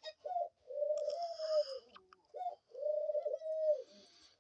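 Pet dove cooing: a short coo followed by a long, level coo, and the pair repeated once.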